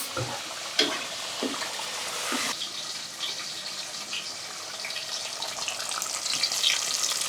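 Kitchen tap running into a sink, a steady rushing hiss, with a few light clinks in the first two and a half seconds.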